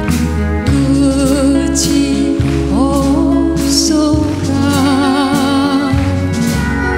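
A woman singing a Korean folk-pop song with a live band behind her, her held notes wavering with vibrato and sliding up into a higher note about three seconds in, over a bass line and percussion.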